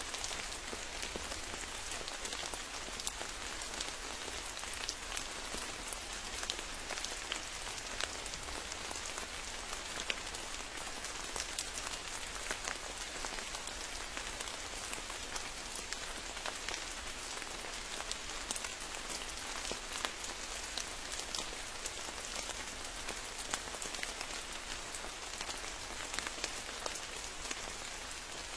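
Steady rain: an even hiss dotted with many sharp ticks of individual drops striking close by.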